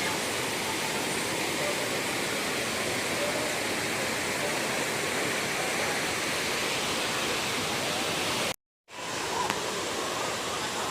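Waterfall rushing steadily, an even wash of falling water. The sound cuts out completely for a split second near the end.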